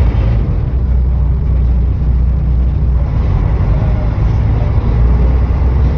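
A steady low rumble with seagulls calling faintly over it.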